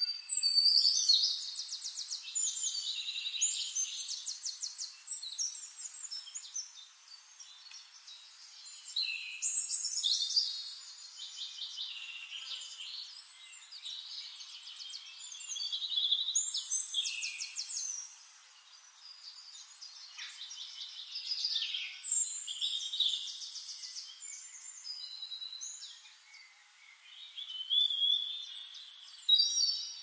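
A songbird singing in repeated phrases of a few seconds each, made of fast trills and whistled notes, with a short pause between phrases about every six seconds.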